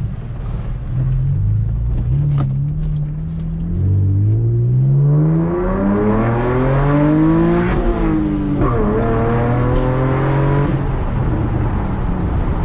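V6 Camaro engine through its exhaust with the mufflers deleted, accelerating: the note climbs steadily, drops sharply about eight seconds in as it shifts up, then runs on at a steadier pitch.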